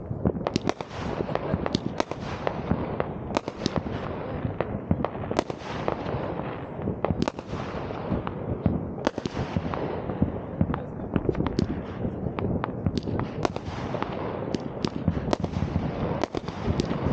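New Year's Eve fireworks: a dense, unbroken run of sharp bangs and cracks, many a second at times, over a continuous rumble of further explosions.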